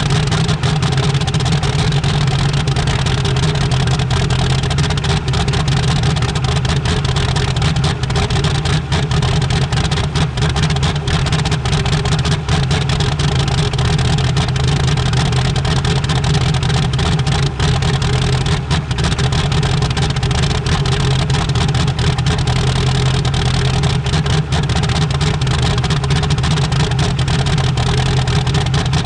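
Race truck's 6.5-litre V8 diesel running steadily at idle in the cold, a rapid, even clatter of firing pulses with no revving.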